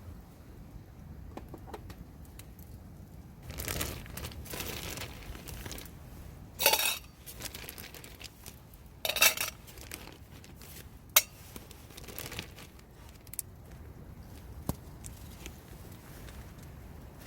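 Tableware being handled: a rustle about four seconds in, then several sharp clinks and knocks spaced a few seconds apart.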